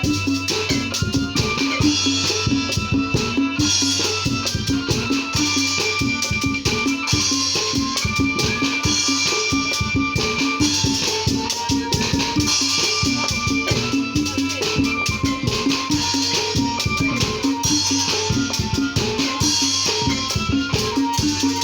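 Obrog music: a fast, steady drum rhythm with rattling percussion under a high melody that moves in short held notes, played loud through a sound system.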